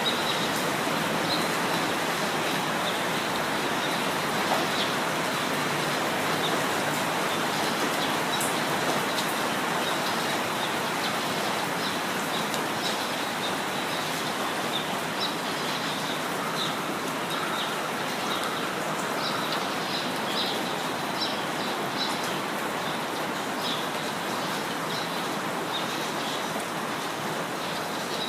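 Steady rain falling, with birds chirping in short high calls through it, more often in the second half.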